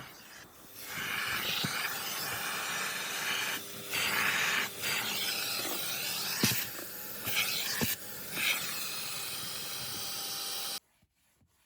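Wet vacuum carpet extractor sucking dirty solution out of car carpet: a steady airy hiss with a few brief dips and surges. It cuts off abruptly about a second before the end.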